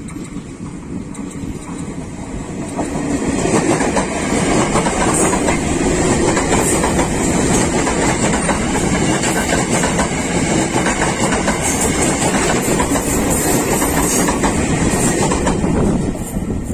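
Former Tokyo Metro 6000 series electric commuter train passing close by. Its wheels clatter over the rail joints. The noise builds over the first few seconds and falls away near the end as the train moves off.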